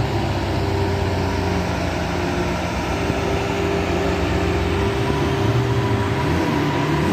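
Car engine running steadily at low revs, its note wavering and rising a little near the end.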